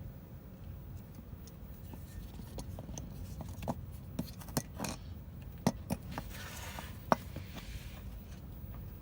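A scatter of short, sharp clicks and light knocks, like small hard objects being handled, with a brief scraping noise just before the loudest knock near the end, over a steady low rumble.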